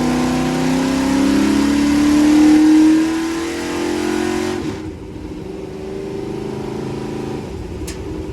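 A race truck's V8 is held at rising revs through a burnout, with the hiss of spinning tyres over it. About five seconds in, the driver lifts off: the tyre noise stops and the engine falls back to a loping idle.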